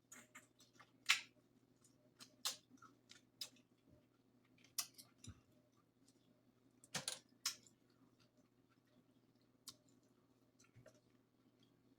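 Close-miked eating sounds: irregular sharp clicks and crackles of lobster shell and wet mouth sounds while eating seafood, a few louder cracks scattered through, over a faint steady hum.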